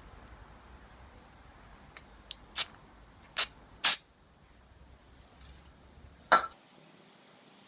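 Aerosol spray can giving short hissing squirts: four quick ones about two to four seconds in, the last two loudest, and one more a little over two seconds later.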